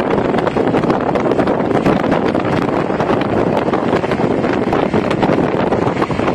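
Steady wind buffeting the microphone on a moving motorcycle, with the riding noise of the motorcycle underneath.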